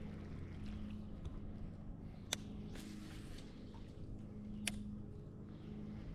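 Quiet sounds aboard a fishing kayak: faint water and handling noise over a steady low hum, with two sharp clicks, likely gear knocking on the hull, about two and a half seconds apart.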